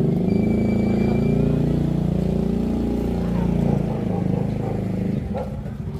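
A small engine running steadily, its sound dropping away about five seconds in.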